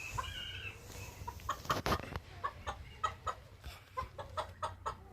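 Bantam chickens clucking in a run of short calls, two or three a second, with a brief loud noise about two seconds in.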